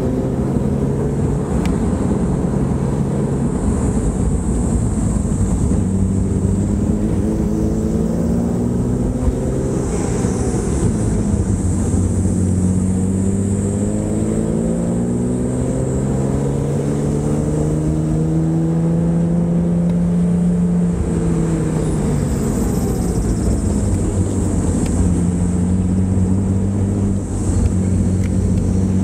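BMW E36 M3's straight-six engine heard from inside the cabin while driving, its pitch rising and falling with the throttle: a long, slow climb in revs around the middle that drops away, and steadier cruising stretches before and after, over steady road noise.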